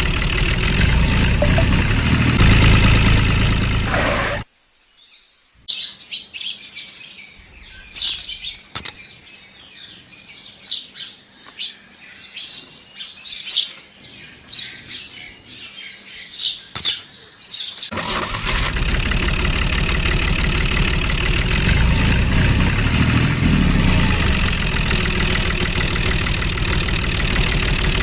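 Small electric motor and gearing of a DIY mini model tractor whirring loudly. It cuts out about four and a half seconds in. For the next twelve seconds or so, birds chirp in short, high calls. Then the motor starts running again at full noise for the rest of the time.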